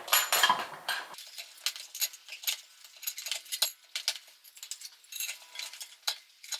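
Bicycle tyre being worked off its wheel rim by hand: a rapid, irregular run of small clicks and clinks as the tyre bead rubs and snaps against the rim, louder in the first second.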